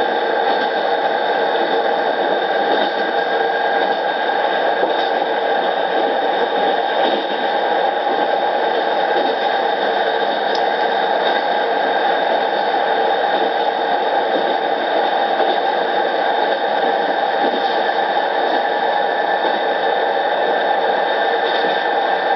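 Keisei 3200 series electric train (Mitsubishi-motored 6M car) running at a steady speed: constant wheel-on-rail noise with a steady hum of several even tones, not rising or falling.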